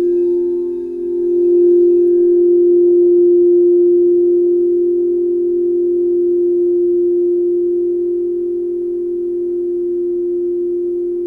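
Singing bowl ringing with a sustained, steady low tone that swells over the first second or two and then slowly fades. Its faint higher overtones die away about two seconds in.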